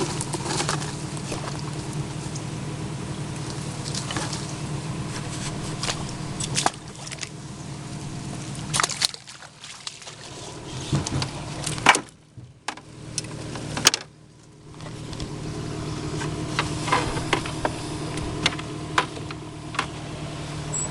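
Boat motor running steadily at low speed, with scattered knocks and water splashing. Midway the motor goes quiet for a few seconds, broken by two sharp knocks, then runs again.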